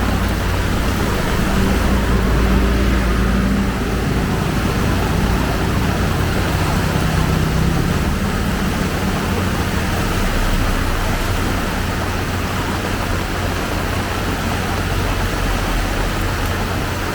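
Heavy rain falling steadily, with the low hum of a motor vehicle's engine nearby, strongest in the first few seconds.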